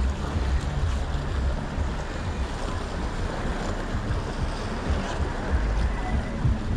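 Wind buffeting the microphone of an action camera on a moving bicycle: a steady rushing noise with a gusty low rumble.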